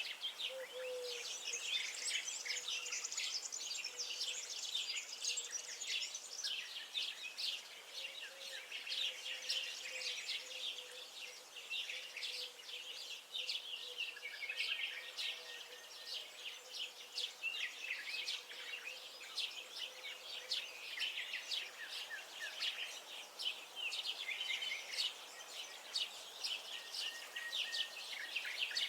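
Many songbirds singing and chirping at once, a dense, continuous chorus of quick high notes.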